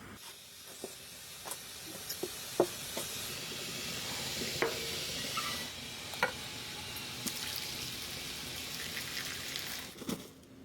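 Food sizzling as it fries in a hot pan: a steady hiss that swells through the middle and eases off near the end, with scattered clicks and taps.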